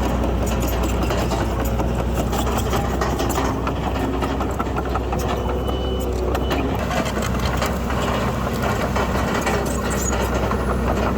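Heavy diesel engine of earthmoving machinery running steadily under a constant low hum, with scattered metallic clanks and knocks.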